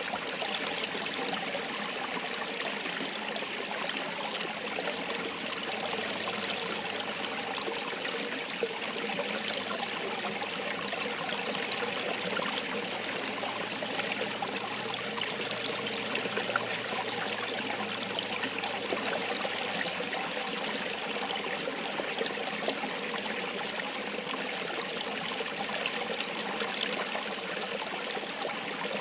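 Running water flowing and splashing steadily, like a small stream or cascade.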